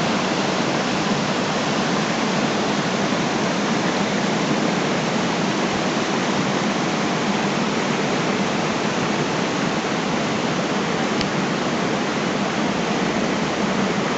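Steady, even rushing noise that starts abruptly and holds without change.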